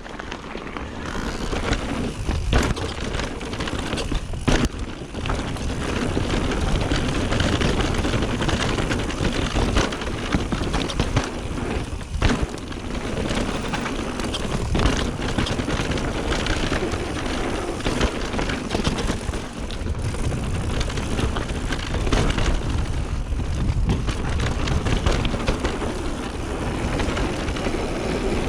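Mountain bike descending a trail at speed: a steady rush of wind and tyre noise, with frequent rattles and knocks from the bike over bumps.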